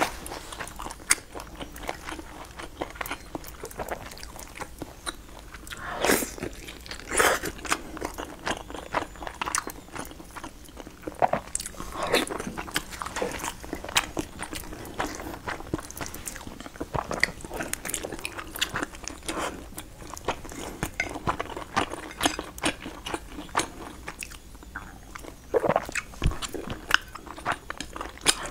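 A person eating close to the microphone: chewing and biting, with many short, irregular mouth clicks and occasional louder bites.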